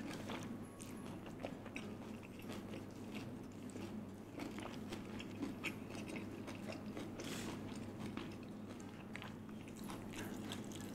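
Close-up eating sounds: a person chewing and biting food, with frequent small, irregular crunches and clicks.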